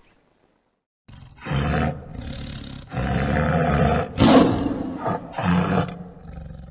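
An animal roaring in a series of rough, low bursts that start about a second in, the loudest a little past the middle.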